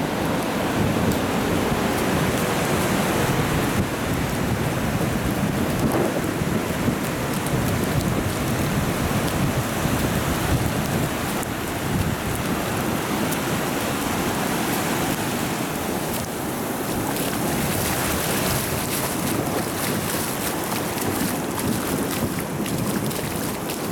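Steady rain falling on a beach with surf breaking alongside, and wind on the microphone.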